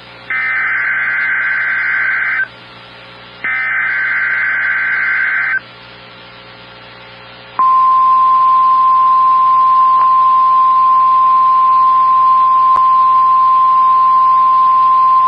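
Emergency Alert System SAME header: two bursts of about two seconds of screechy digital data with a short gap between them, followed about seven and a half seconds in by the steady, single-pitched NOAA Weather Radio 1050 Hz alert tone.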